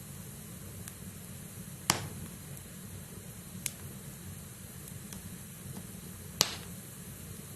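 Wood fire burning in a fireplace: the logs crackle over a steady low rumble of flame, with three sharp snaps of burning firewood, about two seconds in, near four seconds and past six seconds, the first and last the loudest.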